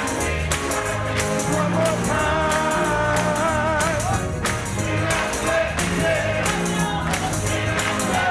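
Gospel music: voices singing over bass and a steady tambourine beat.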